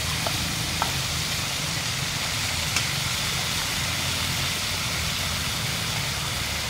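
Food sizzling in a pan over a fire: a steady hiss with a low, constant rumble under it and a few faint pops.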